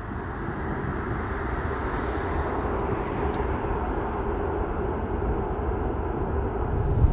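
Jet airliner engines heard from the ground: a steady rushing noise that grows gradually louder as the aircraft approaches.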